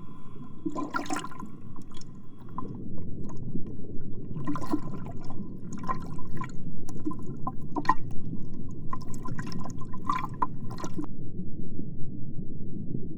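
Water sloshing and gurgling as a steady low rumble, with scattered sharp clicks and taps that stop about eleven seconds in.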